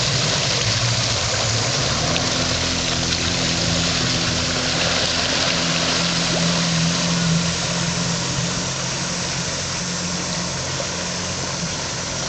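Sea-Doo personal watercraft engine running, a steady pitched drone over a broad hiss, growing a little fainter in the last few seconds.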